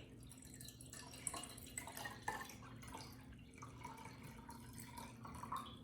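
Water being poured slowly from a glass into a large glass container, a faint trickle with scattered drips.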